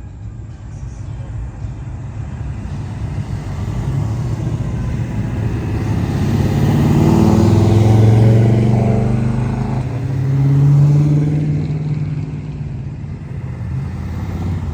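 A car engine running as the car drives close by. It grows steadily louder to a peak about eight seconds in, dips, rises again briefly about eleven seconds in, then fades.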